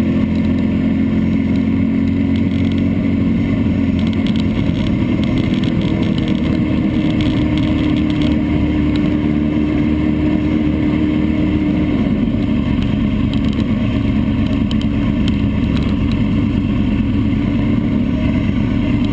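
Vehicle engine running at a steady, moderate pace, recorded by a camera mounted on the vehicle; the engine note holds fairly level, shifting slightly about twelve seconds in.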